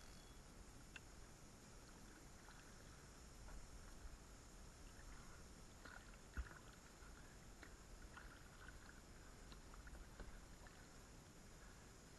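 Near silence: faint wind and water around a kayak, with a few light ticks and one dull knock about six seconds in.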